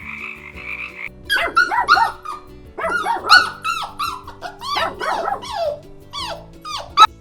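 Dogs barking and yipping in a quick run of short, high, falling yelps, starting about a second in. The tail of a frog chorus is heard before them.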